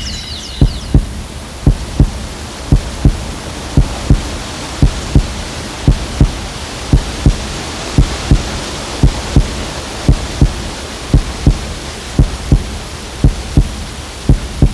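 Heartbeat sound effect: a steady lub-dub of low thumps, about one double beat a second, over a constant hiss.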